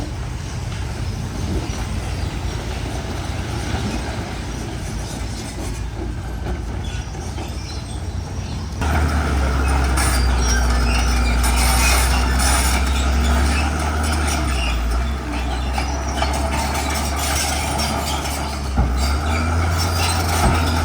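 Komatsu bulldozer's diesel engine running steadily, with mechanical clanking from the machine as it works rock. About nine seconds in the sound becomes suddenly louder and stays so.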